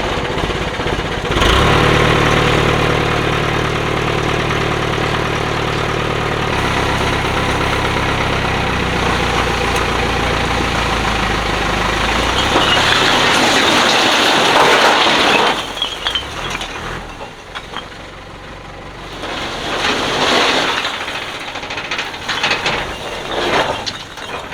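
Truck engine running steadily, its note stepping down about six seconds in and dying away about halfway through. A loud rush of noise follows and lasts about three seconds, then a few quieter clatters.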